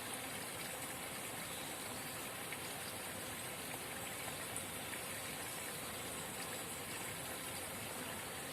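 Small forest spring babbling steadily, an even rush of running water with faint scattered drips.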